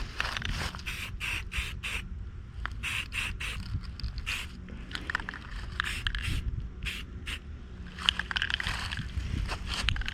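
Quick, irregular scraping strokes of paint being applied to a metal bird feeder, each stroke short, in uneven runs with brief pauses.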